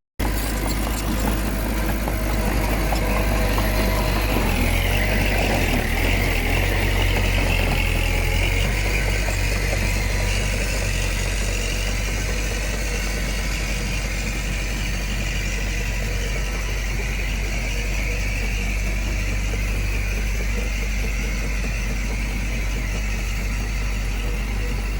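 Heavy diesel engine of construction machinery running steadily, rising in speed for a few seconds from about four seconds in and then settling back.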